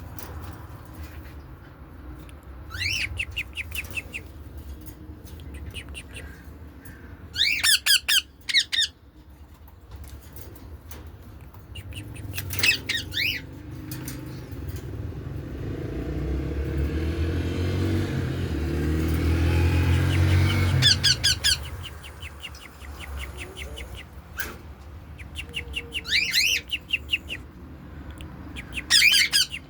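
Caged pet birds chirping in quick rapid bursts of high, repeated notes, about seven bursts in all. In the middle a low rumble swells up and fades away.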